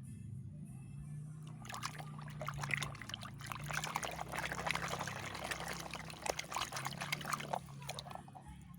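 Water pouring and splashing for about six seconds, starting a couple of seconds in and stopping shortly before the end, over quiet background music.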